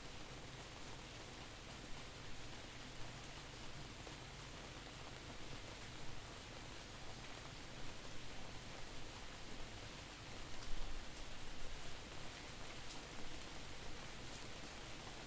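Steady rain falling, with scattered louder drop hits, loudest about two thirds of the way through; the sound is panned from side to side.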